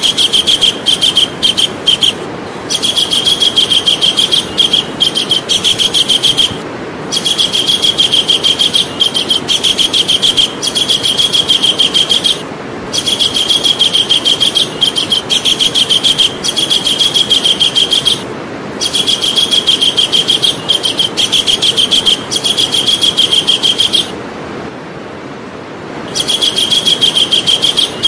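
Javan kingfisher calling: loud runs of rapid, repeated high notes, each run a few seconds long with short breaks between, over a steady background hiss.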